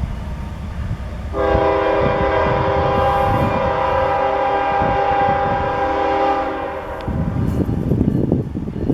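CSX freight locomotive's air horn sounding one long, loud blast of about five and a half seconds over the low rumble of the train; after the horn cuts off, the train's rumble and rattle grow louder.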